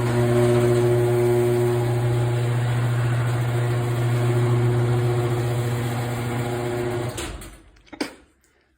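LiftMaster Professional chain-drive garage door opener running, a steady motor hum as the chain drives the door. The motor stops about seven seconds in, and a single short knock follows about a second later.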